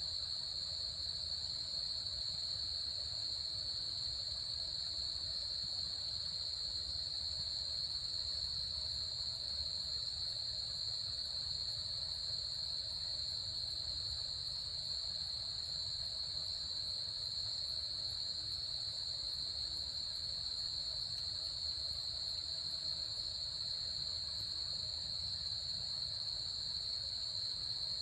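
Insects in the forest calling in a continuous high-pitched chorus with no breaks, over a faint low rumble.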